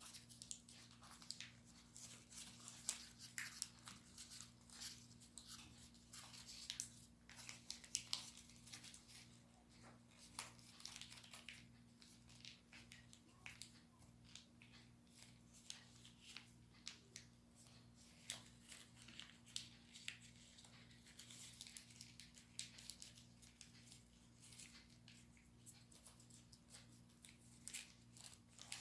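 Origami paper being folded and creased by hand: irregular soft crinkles and sharp crackles of the sheet, some in quick clusters, over a faint steady low hum.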